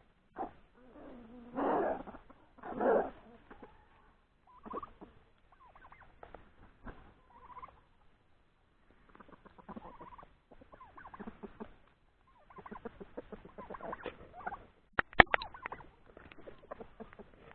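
Domestic turkeys gobbling and calling in a flock. The first few seconds hold a couple of loud calls, then many short scattered calls, with chickens among them. A few sharp clicks come near the end and are the loudest sound.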